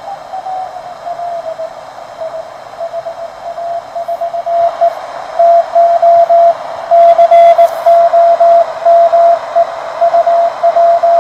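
Morse code (CW) from the other station in an amateur contact on the 30-metre band, heard through the speaker of a homebrew WBR regenerative receiver. It is a single keyed tone of dots and dashes over steady band hiss. The tone slides down a little in pitch at the start and gets louder about four and a half seconds in.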